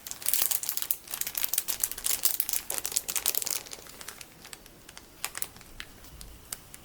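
Hands gently touching and rubbing close to the microphone, giving a dense crackly rustle that thins out after about three and a half seconds into sparse light ticks, fading away.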